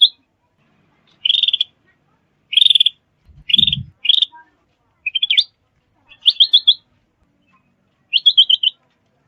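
A songbird calling in short bursts of rapid notes, about one burst a second, some phrases breaking into four or five quick notes in a row. A low thump about three and a half seconds in.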